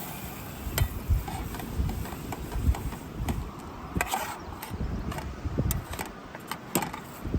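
Wind buffeting the microphone in uneven gusts, with a few sharp clicks and knocks scattered through.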